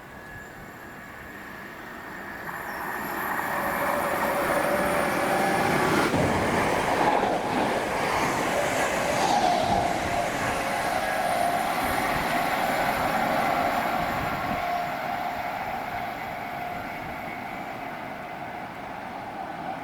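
A train passing through a station. It grows louder over the first few seconds, stays loud through the middle, then fades, with a steady whine over the rumble.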